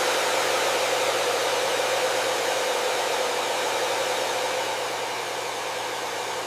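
Hair dryer running continuously: a steady airy rush of blown air over its motor's whir, with a faint low hum underneath.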